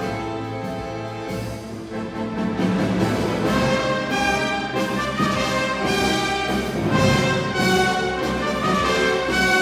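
Symphony orchestra playing a tango with prominent brass, growing louder about two and a half seconds in, with regular rhythmic accents.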